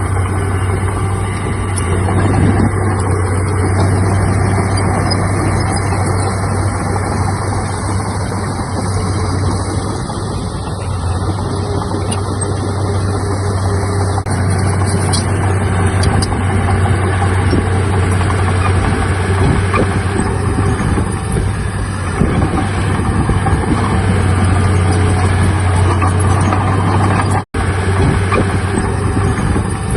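Heavy diesel earthmoving machinery running steadily with a deep, constant engine drone, broken by a split-second gap near the end.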